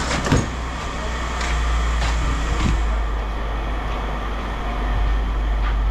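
Steady low rumble of an idling vehicle engine, with a few sharp knocks in the first three seconds, the loudest just after the start.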